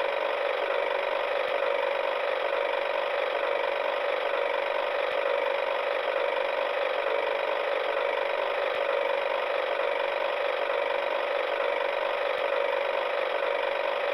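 A small geared electric motor whirring steadily at an even pitch and level.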